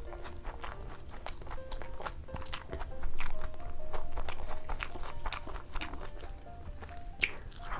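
Close-miked chewing of a mouthful of fried egg with crisp browned edges: many short crunching clicks, loudest about three seconds in.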